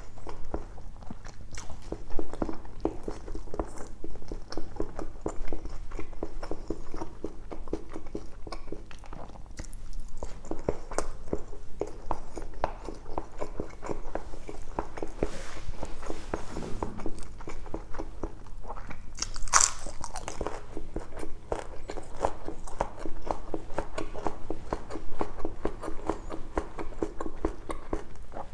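Close-up chewing and mouth sounds of a person eating tender pork belly adobo cooked in coconut milk: a steady run of wet, rapid clicks and smacks with short pauses. About two-thirds of the way through there is one brief sharper sound.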